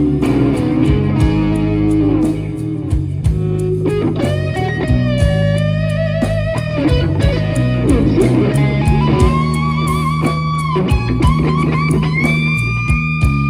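Live blues-rock band playing: an electric guitar lead with long held, bending notes over bass and drums.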